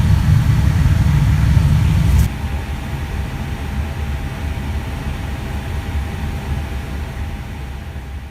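Jet airliner engine noise: a loud, low rumble. About two seconds in it cuts abruptly to a quieter rumble, which fades toward the end.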